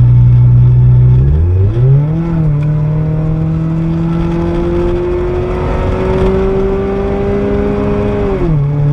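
A car engine under acceleration. It revs up quickly about a second and a half in, then climbs slowly in pitch for about six seconds, and falls back near the end.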